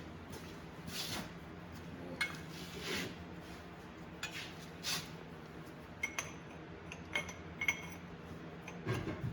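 Steel tools and parts clinking and knocking against each other, irregular light knocks with a few short ringing clinks in the second half and a louder clatter near the end.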